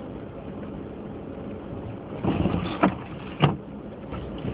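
Car cabin road noise while driving slowly on snowy streets, a steady low rumble. About two seconds in it grows louder for a moment, with two sharp knocks about half a second apart.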